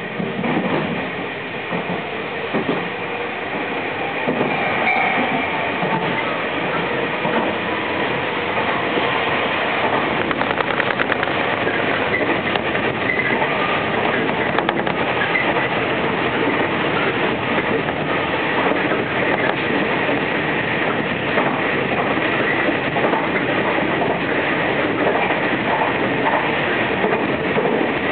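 Running noise of a Tobu Isesaki Line express commuter train heard from inside the passenger car: a steady rumble of wheels on the rails. It grows louder over the first few seconds, then holds steady.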